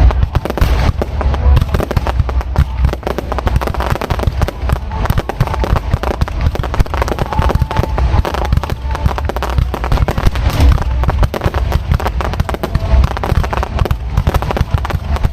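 Fireworks display going off close by: a continuous rapid barrage of bangs and crackles with deep booms, without a break.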